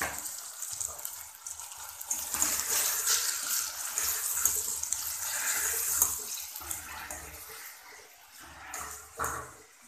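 Chopped fresh turmeric root, onion and tomato frying in oil in a steel pan, sizzling as a spoon stirs in the freshly added spices. The sizzle is loudest in the middle and dies down near the end.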